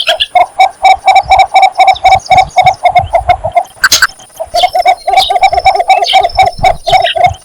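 Cinnamon bittern's courtship call: long runs of rapid clucking notes, about six a second, broken by a short pause about four seconds in, where a sharp click is heard.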